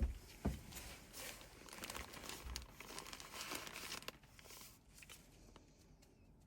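Hands handling crinkly material: two knocks near the start, then a few seconds of crinkling and rustling that dies down toward the end.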